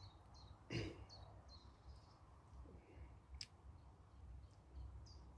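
Faint birdsong: a small bird repeating short high chirps, two or three a second, falling quiet in the middle and starting again near the end. A short soft noise comes about a second in and a single click a little past the middle.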